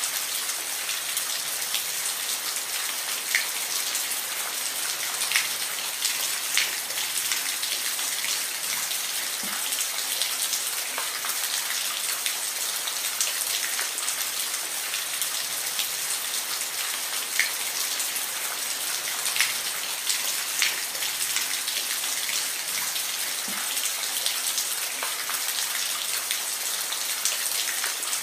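Steady rain falling, a continuous hiss with individual drops ticking and splattering on a surface here and there.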